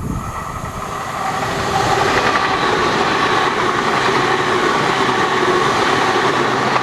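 A train passing close by, getting louder about two seconds in. Its wheels clatter rapidly over the rail joints under a steady high ringing from the wheels and rails.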